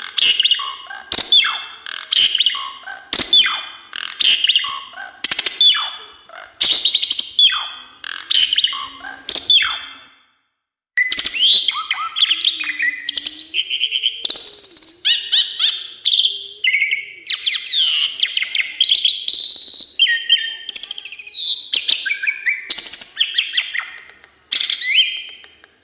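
Asian pied starling (jalak suren) singing a varied song. It opens with a rapid run of sharp, downward-sweeping whistled notes, then after a brief break continues as an unbroken medley of whistles and chatter. The song is packed with learned fill-in (isian) phrases.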